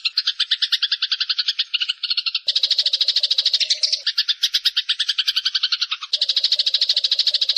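Bird-song masteran recording: fast, buzzy pulsed trills of around ten notes a second, looped in spliced segments that change abruptly about two and a half, four and six seconds in.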